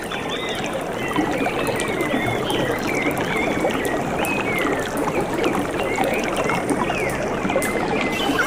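Steady rush of flowing stream water, with birds giving short, high chirping calls again and again over it.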